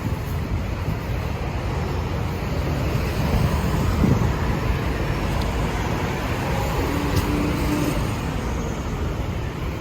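Road traffic on a street: a steady rumble of passing cars and engines, with a short low steady tone about seven seconds in.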